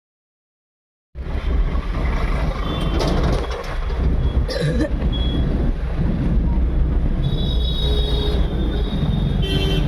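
After about a second of silence, loud road traffic noise starts: a steady low rumble of passing vehicles, with short high squeals or horn-like tones near the end.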